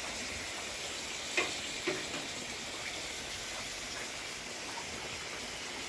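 Steady hiss of falling rain, with two short knocks about a second and a half and two seconds in.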